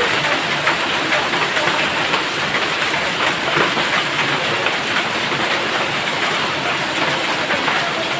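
Heavy rain pouring down steadily, a dense patter of sharp ticks from drops striking a hard surface.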